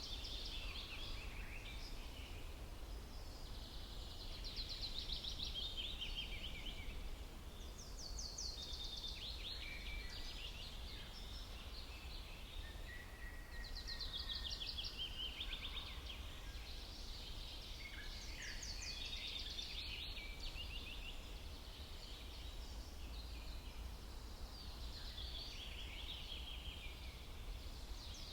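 Songbirds singing in a forest: fast trilled phrases of rapid high notes, repeated every few seconds, over a steady low rumble.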